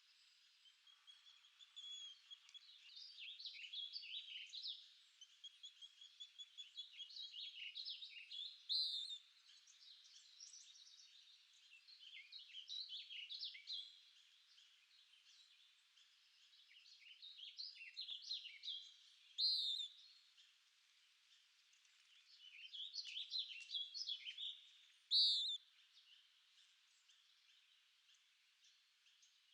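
Songbird singing: phrases of quick, high, jumbled notes about every five to six seconds, several of them ending in one sharp, louder note.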